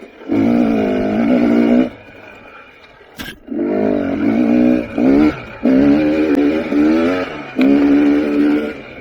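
KTM 300 XC TPI two-stroke single-cylinder dirt bike engine being ridden on and off the throttle: four bursts of revving that rise and fall in pitch, with quieter gaps between them as the throttle is rolled off. A sharp knock about three seconds in.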